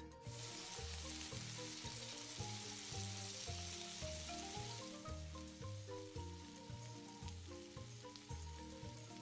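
Coconut-breaded shrimp sizzling as they pan-fry in oil, starting just after the opening and easing off in the second half, over background music with a steady beat.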